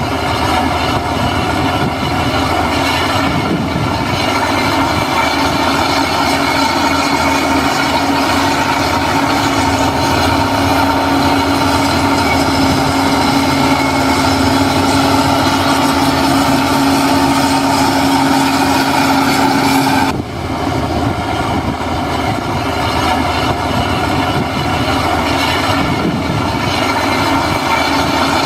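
Heavy earthmoving machine's diesel engine running steadily under work, with a steady whine over it that stops abruptly about 20 seconds in.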